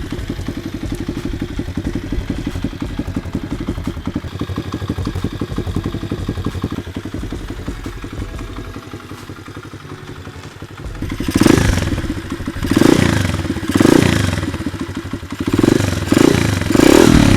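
125cc pit bike's single-cylinder four-stroke engine idling just after a kick-start. From about two-thirds of the way in, the throttle is blipped several times in quick succession, each rev rising and falling back.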